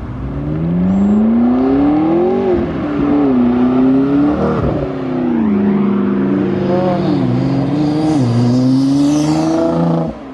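A car engine revving up, its pitch climbing over a couple of seconds, dropping sharply and climbing again several times.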